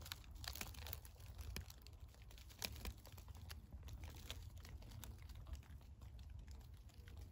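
Leaves and twigs rustling and crackling in irregular snaps, with a low rumble beneath, as vegetation is pushed aside close to the microphone.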